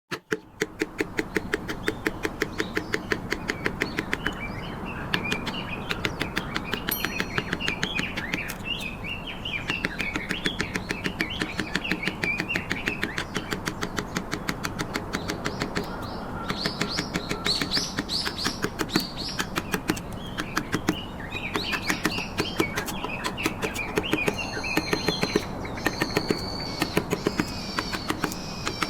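Carving mallet rapidly tapping a chisel into trembesi (rain tree) wood, a steady run of sharp strikes several times a second, with small birds chirping alongside.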